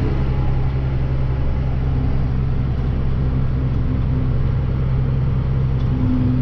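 Grain truck's engine running at a steady speed while driving with a load, a constant low hum.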